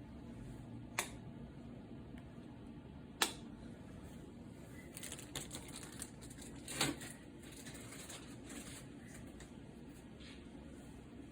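A few sharp clicks and knocks, two single ones early and a cluster of rattling taps in the middle, over a low steady hum.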